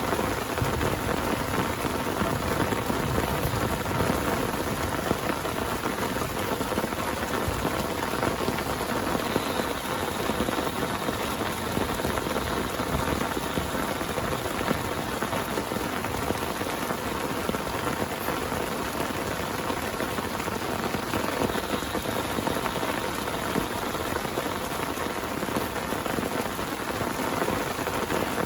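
Heavy rain falling steadily on a tent, a dense, even downpour with no break.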